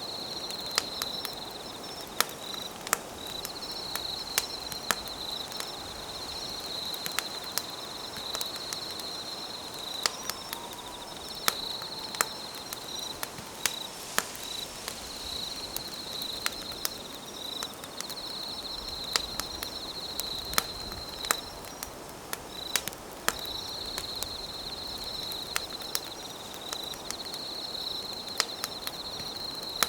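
Campfire crackling, with sharp irregular pops of burning wood, over night insects trilling steadily in phrases a few seconds long with short breaks.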